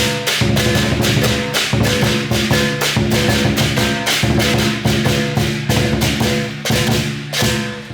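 Lion dance percussion: a drum beaten rapidly with clashing cymbals, many strikes a second, over steady ringing pitched tones; the beating thins briefly near the end.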